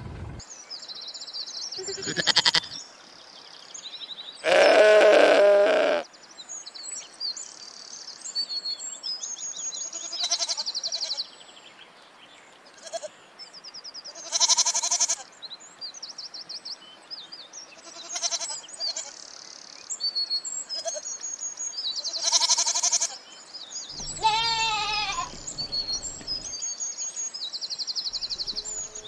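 Goats bleating, about seven separate calls at irregular intervals; the longest and loudest comes about five seconds in, and a wavering call comes near the end. High chirping runs steadily behind them.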